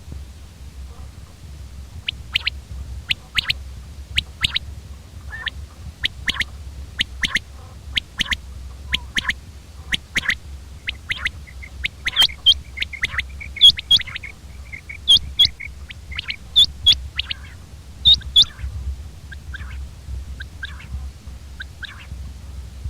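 Common quail calling: short, sharp notes, often in quick groups of two or three, repeated over and over.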